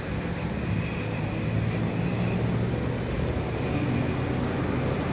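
Steady low hum of a motor vehicle's engine running.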